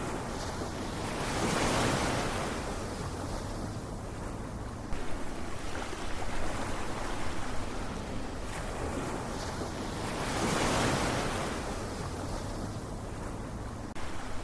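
Ocean waves breaking and washing on the shore, with two swells of surf about nine seconds apart, the first about two seconds in and the second near eleven seconds.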